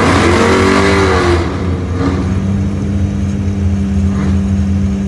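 Naturally aspirated V6 engine of a Mitsubishi Mirage drag car revved up and back down over the first second and a half, then idling with a steady drone.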